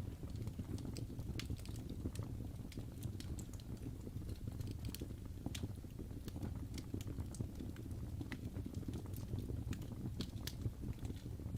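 Wood fire crackling in a fireplace: a steady low rumble of flames with frequent sharp, irregular pops and snaps from the burning logs.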